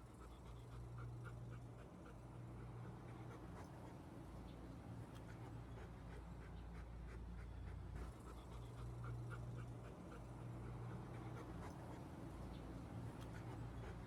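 A dog panting faintly, with a low hum in the background.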